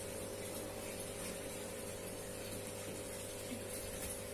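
Steady rain, heard as an even hiss, with a low steady hum underneath.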